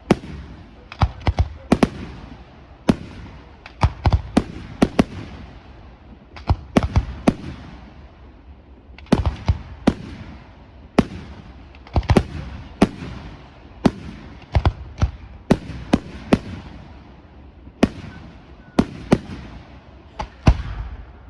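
Aerial fireworks shells bursting in quick, irregular succession, about two sharp bangs a second, often in clusters, each trailing off in an echo.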